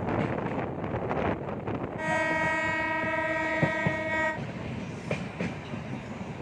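Train running on the rails, its wheels clattering steadily. About two seconds in, a locomotive horn sounds one steady blast of a little over two seconds, then cuts off while the wheel noise carries on.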